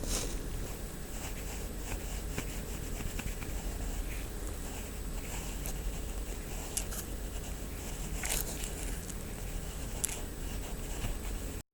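Stainless steel ear pick scraping and scratching inside an ear canal, close to the microphone: irregular soft scrapes and crackles, with a few sharper scratches in the second half. The sound cuts out for a moment just before the end.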